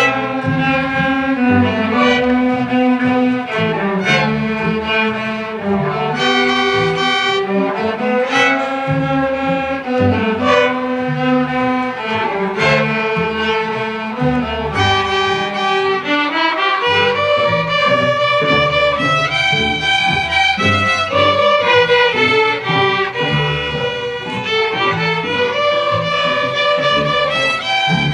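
A school string orchestra of violins, cellos and basses playing a piece, with sustained bowed notes in several parts that move from chord to chord.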